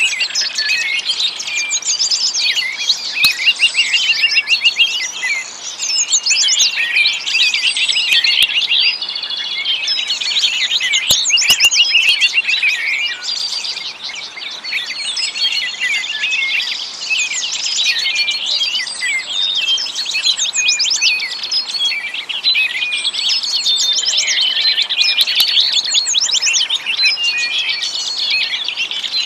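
Many small songbirds chirping and trilling together in a dense, unbroken chorus of high, quick notes.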